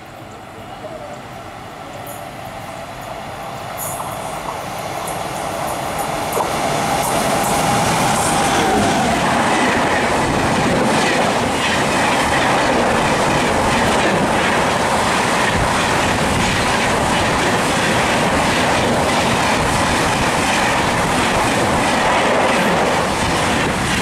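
Express train hauled by a WAP-7 electric locomotive approaching and passing at speed: a rush of noise that grows louder over the first several seconds, then a steady, rapid clickety-clack of wheels over the rail joints as the coaches go by close.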